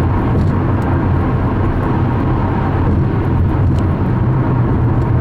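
Steady road and engine noise inside a car's cabin while driving on a freeway: a constant low rumble under an even hiss.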